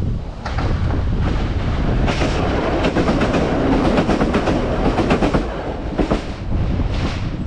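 Class 170 Turbostar diesel multiple unit passing through a station at speed: a rush of engine and wheel noise with rapid clickety-clack over the rail joints. It builds from about half a second in, is loudest about four to five seconds in with a thin high whine, and eases off after about six seconds.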